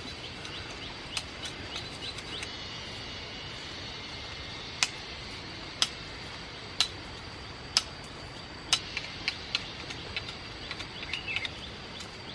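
Forest ambience: a steady high insect drone with short repeated bird chirps. Sharp ticks come about once a second midway through.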